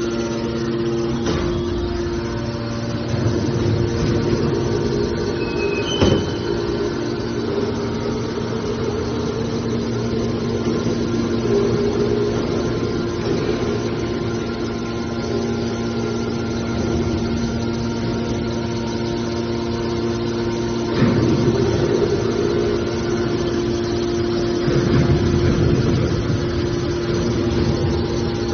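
Hydraulic scrap car baler running, its power unit giving a steady drone. There is a sharp knock about six seconds in, and louder, rougher stretches of noise about three quarters of the way through and again near the end.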